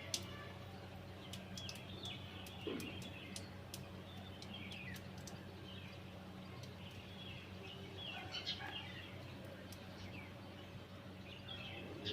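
Small birds chirping faintly and intermittently, over a steady low hum.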